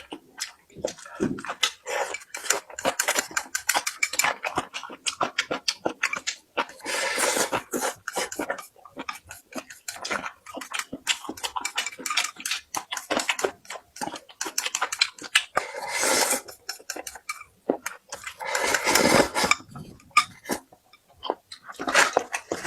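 Close-miked eating: chewing and crunching food, with many short clicks of utensils against dishes and a few louder crunchy bites.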